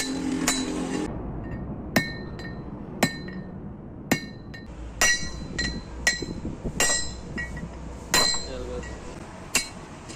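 Hammer blows on the steel parts of a truck wheel hub, struck about once a second, each hit ringing briefly with a metallic clink.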